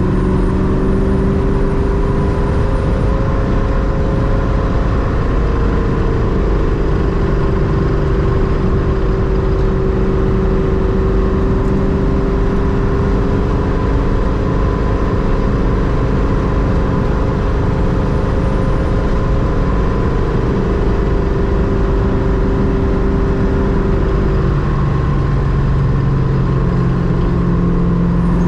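Ultima RS's GM LS-family V8 running at a steady cruise, its pitch drifting slowly up and down and settling lower near the end.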